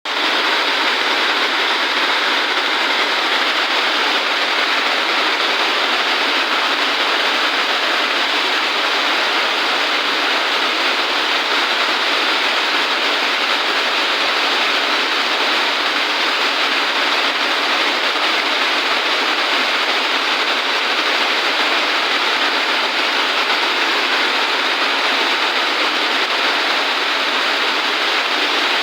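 Heavy rain falling, a steady, unbroken hiss that stays at one level throughout.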